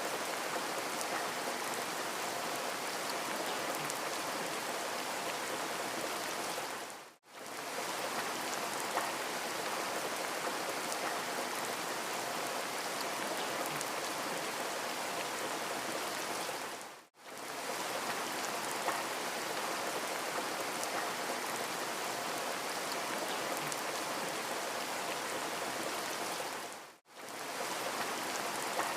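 Steady rain noise, a looped rain recording that fades out and back in briefly three times, about ten seconds apart.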